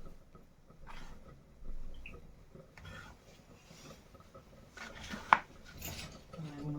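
Scattered light knocks and clicks of kitchen utensils, with one sharp ringing metal clink about five seconds in.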